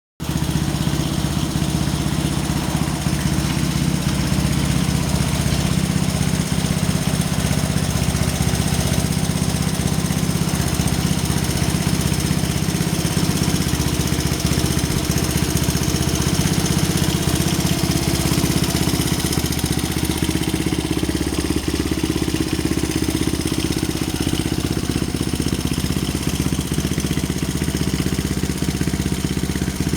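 Honda Ape 100's single-cylinder four-stroke engine idling steadily through an aftermarket OVER muffler.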